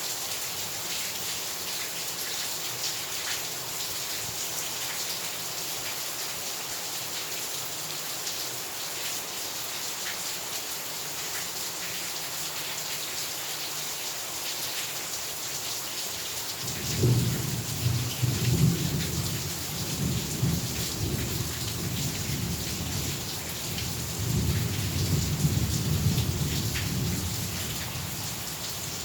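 Heavy rain falling steadily, with a thunder rumble that breaks in about two-thirds of the way through, swells twice and fades off.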